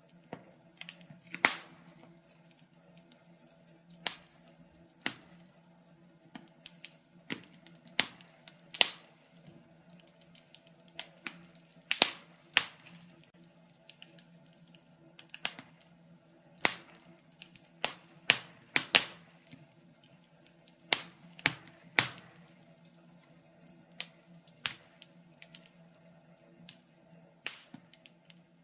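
Wood fire crackling in a fireplace: sharp pops and snaps at irregular moments, a few each second, over a faint low hum.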